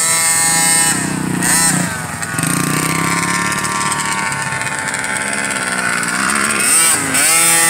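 Pee-wee motocross bikes, one of them a Cobra two-stroke minibike, riding around the track with their engines revving up and down. The pitch climbs sharply at the start and again about a second and a half in, slides slowly through the middle, and climbs again near the end.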